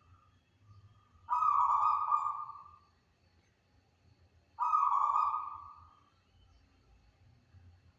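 Zebra dove (perkutut) cooing: two calls about three seconds apart, each starting abruptly and fading away over a second or so.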